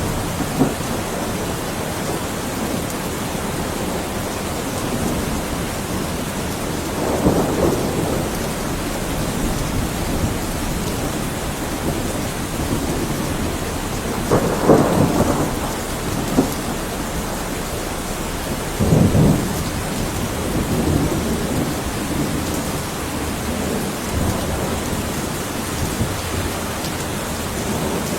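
Heavy rain falling steadily during a thunderstorm, heard through a window. Thunder rumbles swell up over the rain three times, each for about a second, with fainter rumbles in between.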